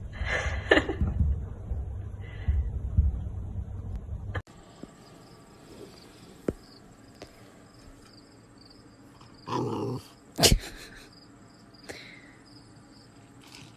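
A dog's short vocal sounds over a low rumble. After a sudden cut, a quieter stretch follows, with a brief rush of noise and one sharp knock.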